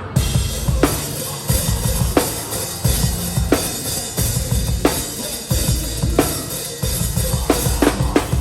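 Hardcore/metalcore band playing live, heard from behind the drum kit: a slow, heavy part with a snare hit about every second and a third over a busy bass drum and low, sustained band sound, the hits coming quicker near the end.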